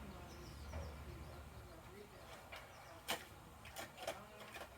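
Sharp plastic clicks and knocks from a Bruder toy garbage truck being worked, the loudest about three seconds in and two lighter ones about a second later, over faint voices.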